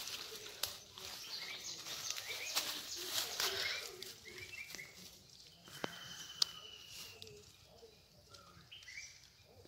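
Birds chirping, with short repeated calls and one longer held note about halfway through. Under them, dry leaves and grass rustle as a puppy noses through leaf litter, with a few sharp clicks.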